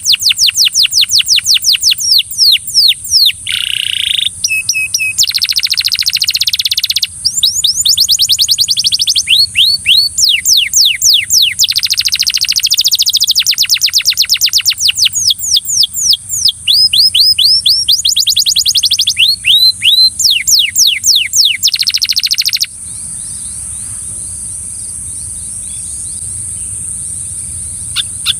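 Belgian canary singing: fast trills of short falling whistles broken by buzzy rolls. The song stops about three quarters of the way through, leaving a faint steady hiss.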